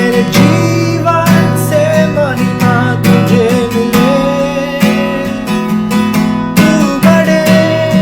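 Acoustic guitar strummed in a steady rhythm of chords, with a wavering, held melody line above it.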